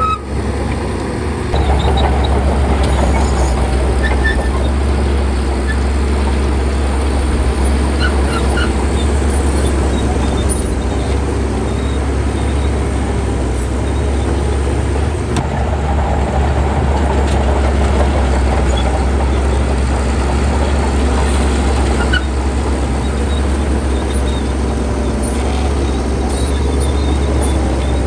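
Bulldozer's diesel engine running steadily with a deep drone, getting louder about a second and a half in, with a few faint high squeaks over it.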